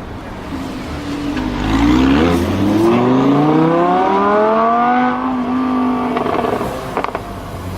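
Lamborghini Huracán LP610-4's V10 engine accelerating hard, its pitch rising steadily for about three seconds, then holding level and fading away. A few sharp cracks near the end.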